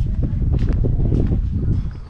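Wind buffeting the microphone, a loud low rumble with scattered clicks that eases off right at the end.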